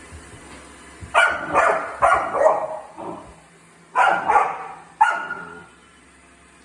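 A dog barking: about four loud barks in quick succession about a second in, then a pause and three more barks near four to five seconds.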